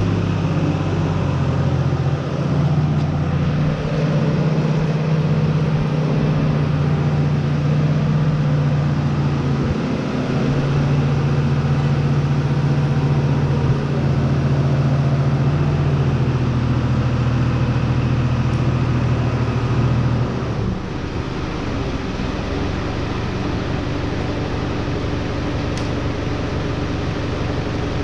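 An engine running steadily, its pitch stepping up and down a few times. About twenty seconds in it drops to a lower, quieter running speed.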